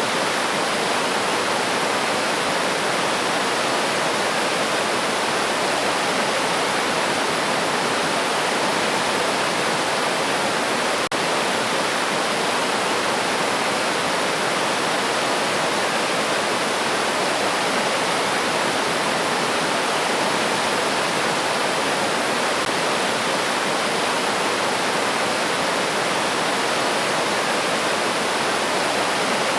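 River water rushing steadily over rocks, a constant even rush with no change in level. A single faint click about eleven seconds in.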